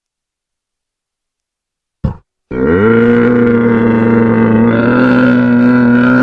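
A single long, low animal call that starts about two and a half seconds in, rises briefly at its start and then holds a steady pitch, after a short click.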